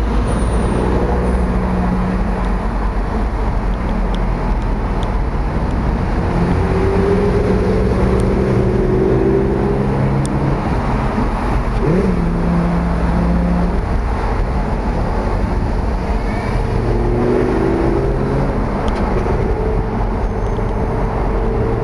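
Supercar engines running close by, a loud steady low engine drone whose pitch shifts now and then, with one quick throttle blip about halfway through.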